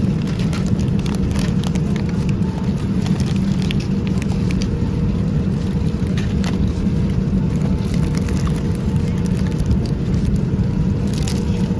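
Steady roar of an airliner cabin in flight, with a faint steady hum over it and scattered light clicks.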